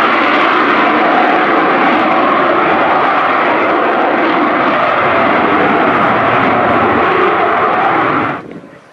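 Lockheed Martin F-35B Lightning II's Pratt & Whitney F135 jet engine running at high power in jet-borne flight for its vertical landing, a loud, steady noise. It cuts off suddenly near the end.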